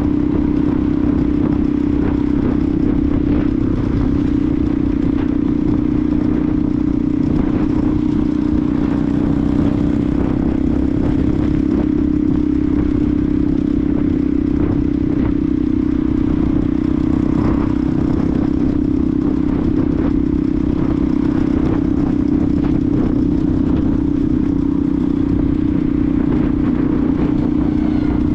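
Benelli TNT 125's single-cylinder 125cc engine running at a steady, unchanging pitch while the motorcycle cruises, with wind and road noise over the rider's camera.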